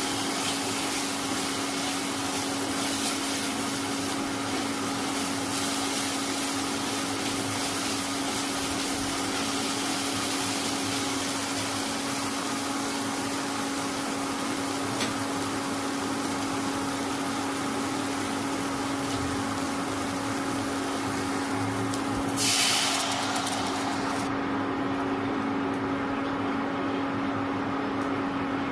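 Masala paste sizzling and frying in a nonstick pan over a steady hum from the induction cooktop. About 22 seconds in, water goes into the hot pan with a brief louder burst of sizzling, after which the frying hiss dies away and only the cooktop's hum carries on.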